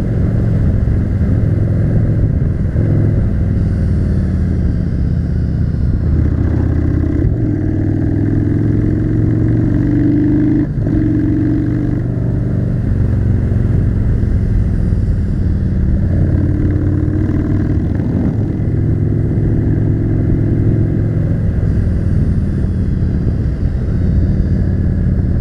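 Yamaha V-twin cruiser motorcycle engine running under way, its revs rising and falling in two spells in the middle.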